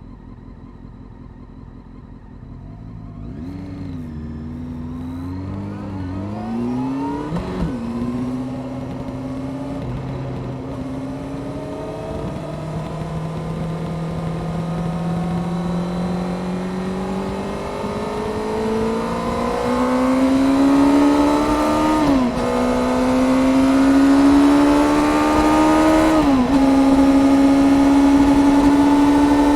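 Honda CBR600F Sport's inline-four engine, through its aftermarket Delkevic exhaust, pulling away from low revs a few seconds in and accelerating hard through the gears. The pitch climbs steadily and drops sharply at each upshift: once early on, then twice close together near the end. Wind noise grows with speed.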